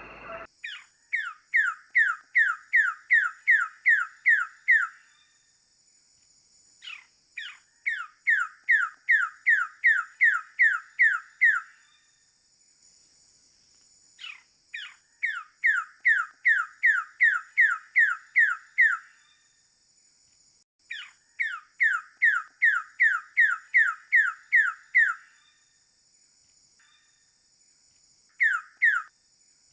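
Wilson's bird-of-paradise calling: runs of about ten to twelve sharp, quickly falling notes at two to three a second, each run lasting four to five seconds, repeated five times with short pauses. A steady high-pitched hum runs behind the calls.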